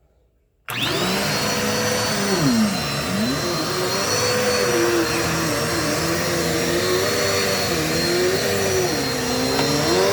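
Dirt Devil multi-surface vacuum cleaner switched on under a second in: its motor spins up to a steady high whine. A lower hum under it dips and wavers in pitch several times as it runs.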